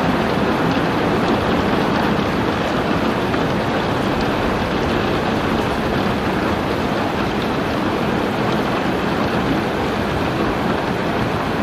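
Heavy rain falling steadily, an even, unbroken hiss of rainfall with no pauses or changes in strength.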